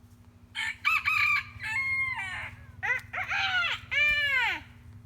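A rooster crowing once, a full cock-a-doodle-doo of several broken notes ending in a long drawn-out note that rises and falls away.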